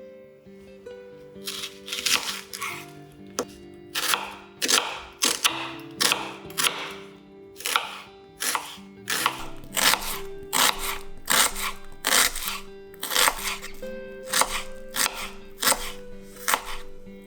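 Knife slicing vegetables on a cutting board in a steady run of short strokes, about two a second, over soft background music.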